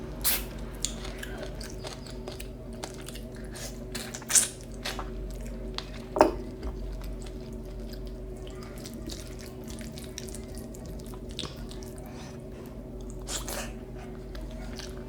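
Close-miked eating: chewing and wet mouth clicks from someone eating a meal with their hands, with a few louder bites, the loudest about six seconds in, over a steady low hum.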